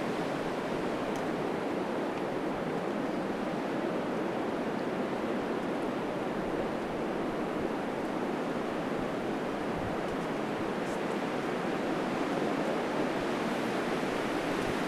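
Strong gale-force wind rushing steadily through backyard trees, with gusts up to 60 mph, swelling slightly near the end.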